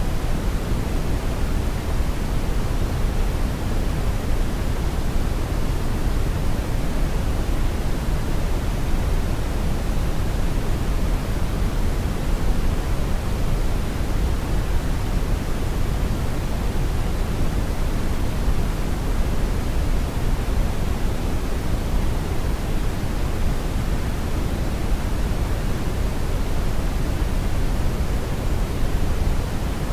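Steady brown noise: an even, deep rushing hiss with most of its weight in the bass, without changes.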